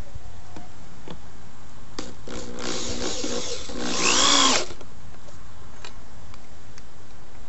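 Power drill driving a sheetrock screw into a pine 2x10 board, running for about two seconds with its pitch rising and then falling as the screw seats.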